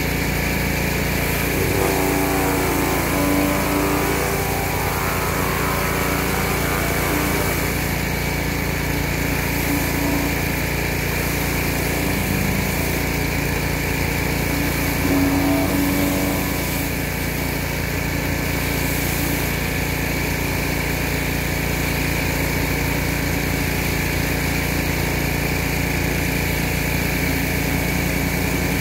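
Pressure washer running steadily.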